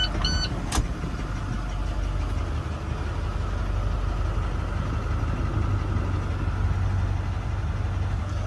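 International TerraStar's MaxxForce diesel engine idling steadily. The last two beeps of a repeating chime sound at the very start.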